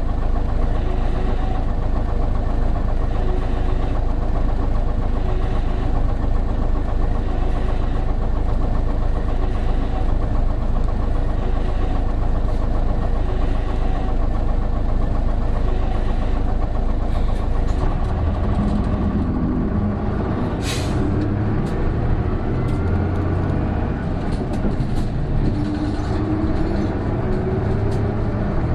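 Interior running sound of an Isuzu Erga PJ-KV234L1 city bus's turbo diesel engine, steady at first, then changing pitch after a short sharp air hiss about two-thirds of the way in. The engine then pulls with a rising whine, the odd noise this bus makes once the turbo comes in.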